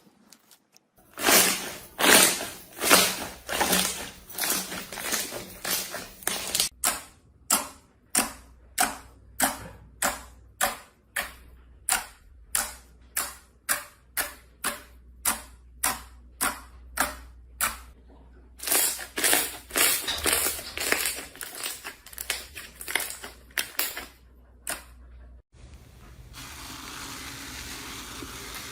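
A crunchy material being crushed in a long series of crisp crunches, about two a second, with a denser flurry partway through. Near the end it cuts to a softer, steady crinkling.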